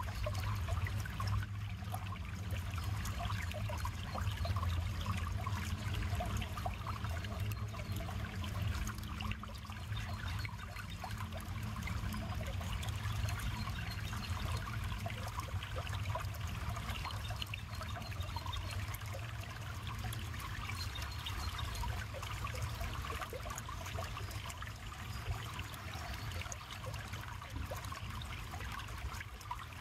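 River water flowing and trickling steadily, with a low rumble underneath.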